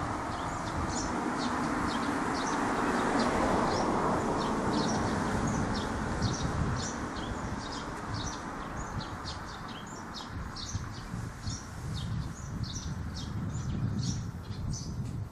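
Birds chirping, a few short, high chirps each second throughout, over a rushing background noise that is louder in the first half.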